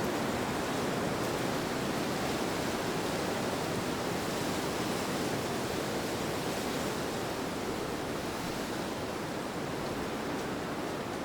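Steady wind sound: an even rushing noise with no gusts, tones or other events, easing slightly toward the end.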